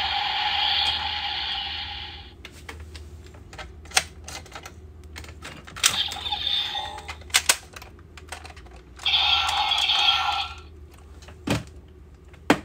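Sharp plastic clicks and clacks of a Kamen Rider Grease Blizzard Knuckle toy being worked by hand, with two bursts of the toy's electronic sound effects: one that stops about two seconds in and another from about nine to ten and a half seconds in.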